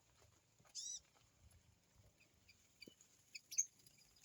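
Small songbirds chirping faintly: one short curved chirp about a second in, then a few soft high chips and a sharper chirp near the end.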